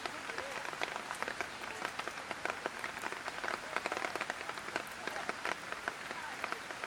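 Light rain falling: a steady hiss with many irregular drop ticks and splats.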